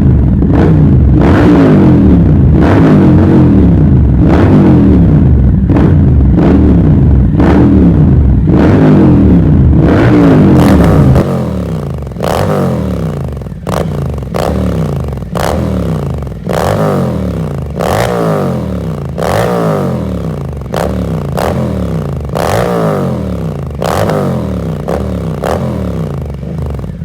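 Triumph Scrambler 1200's parallel-twin engine revved through an aftermarket headerback exhaust with dual exits, in repeated throttle blips that each rise in pitch and fall back, about one a second. Very loud at first, a little quieter from a bit before halfway on.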